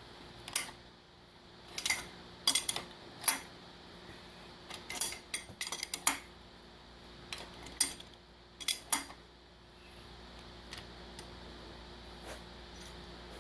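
Irregular metal-on-metal clinks and clanks, like hand tools and engine parts being handled and set down, a dozen or so sharp hits over the first nine seconds and then only a few faint ticks.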